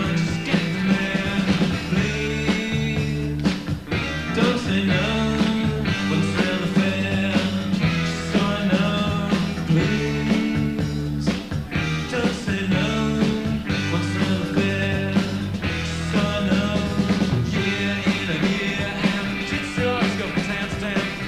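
Rock band playing an instrumental passage: electric guitars over a steady bass line, with drums keeping time.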